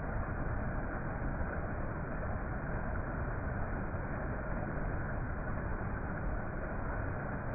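Waterfall rushing: a steady, unbroken wash of water noise.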